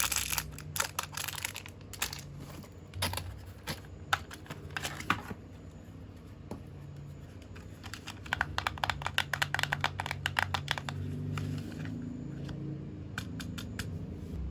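Rapid small clicks, taps and light rattles of hard plastic being handled, with a run of quick clicks about two thirds of the way through, over a faint low hum.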